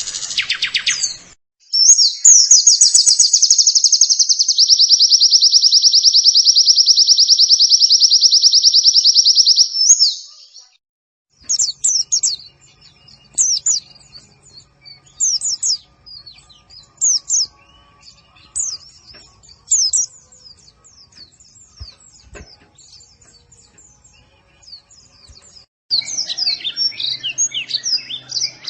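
Oriental white-eye (pleci) song: a loud, very fast, even trill lasting about eight seconds, then separate short high chirps, and dense twittering again near the end.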